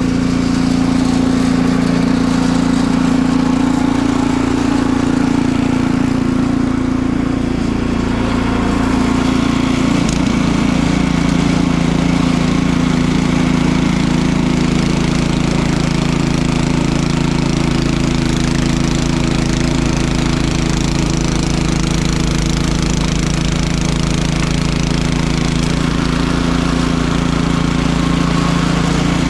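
Small engine running steadily at an even speed, with a brief click about ten seconds in.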